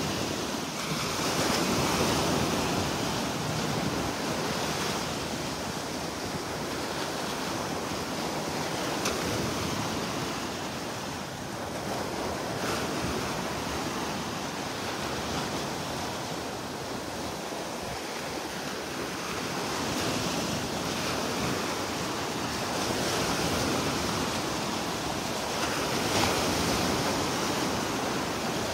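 Gulf of Mexico surf washing on the beach, its wash rising and easing every few seconds, with wind blowing on the microphone.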